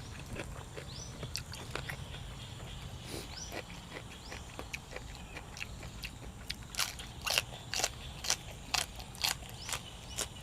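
Close-miked chewing of food: a run of sharp crunches and clicks, louder and about two a second in the later part.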